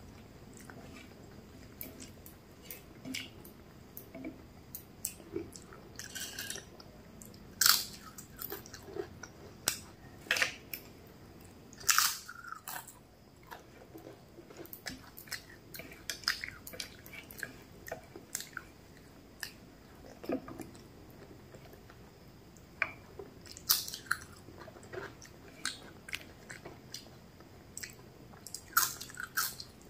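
Close-miked eating: chewing and mouth sounds of rice eaten by hand, broken by sharp, irregular crunches, a few of them loud, as fried papad is bitten and chewed near the end.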